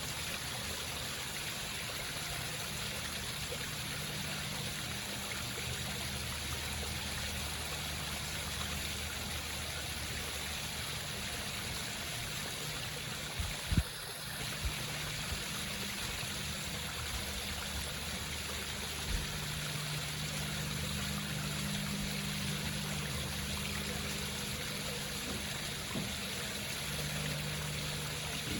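Water from a home waterfall running steadily over rocks, a continuous trickling splash, with a low hum underneath. A few short low thumps about halfway through, and one more a few seconds later.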